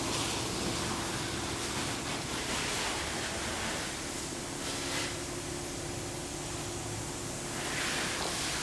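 Water spray from car-wash pressure washers hissing steadily, with a steady low hum underneath.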